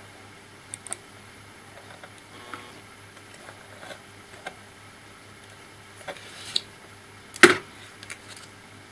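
Small clicks and taps of laptop parts being handled during disassembly, with one louder knock about seven and a half seconds in.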